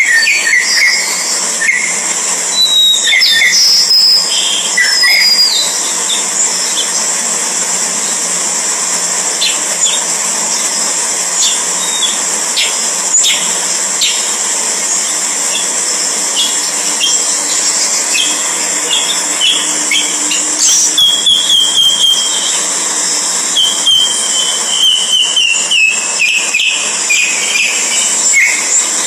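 Birds calling in short whistled notes and falling chirps, scattered through and coming more often in the second half, over a steady high-pitched background drone.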